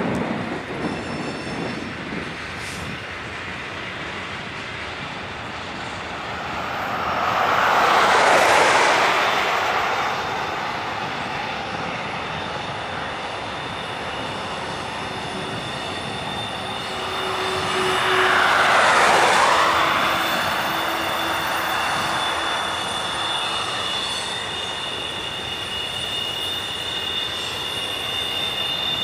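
Double-stack intermodal freight train's loaded well cars rolling past: a steady rumble of wheels on rail. Two louder whooshing swells come about eight and nineteen seconds in, and a thin, high, steady wheel squeal runs through the second half.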